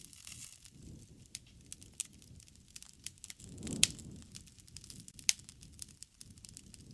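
Campfire burning: irregular crackling and snapping pops over a low rush of flame, with two louder snaps, one a little before the middle and one about three-quarters through.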